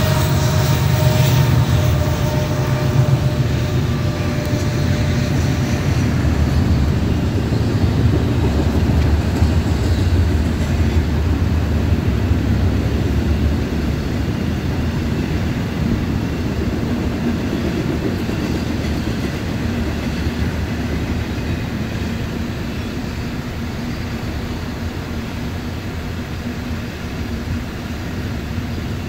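Union Pacific intermodal freight train passing. The diesel locomotives' low engine rumble is strong at first and fades after about ten seconds, leaving the steady rolling and rattling of double-stack container well cars on the rails, slowly growing quieter.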